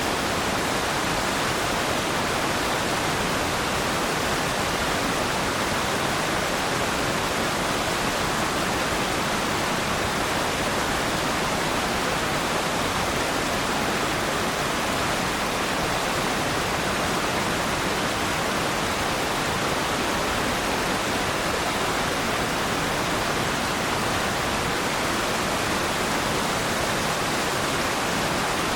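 Waterfall: a steady, unbroken rush of falling water, even throughout with no changes or separate splashes.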